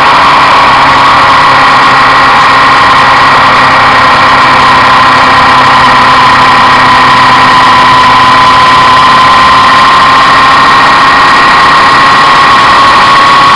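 Suzuki Inazuma 750's inline-four engine running steadily under way, its freshly adjusted carburettors on test, mixed with wind and road noise. The engine note sags slowly and lifts again near the end.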